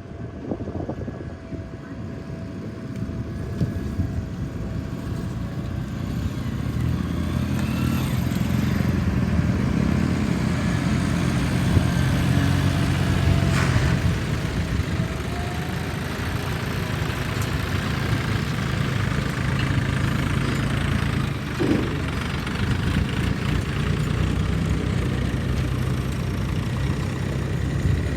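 Heavy diesel engine running steadily, getting louder about seven seconds in, with some clatter.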